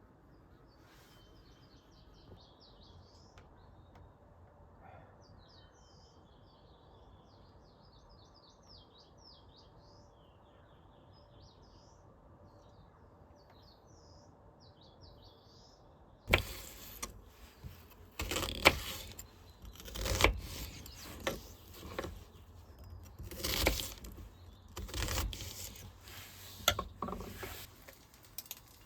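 Small birds chirping faintly in quick, high phrases over quiet forest background. About sixteen seconds in, a series of loud, irregular knocks and scuffs starts up close by and goes on to the end.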